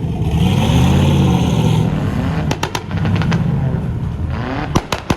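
Car engine revving hard, its pitch rising and falling, with a cluster of sharp cracks about two and a half seconds in and more near the end.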